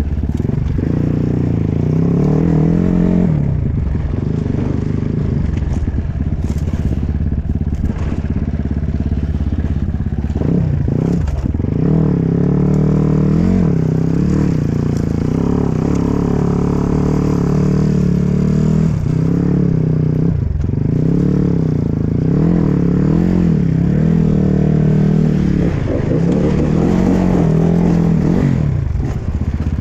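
Enduro dirt bike engine being ridden hard off-road, its pitch rising and falling every second or so as the throttle is worked, with a few brief drops off the throttle.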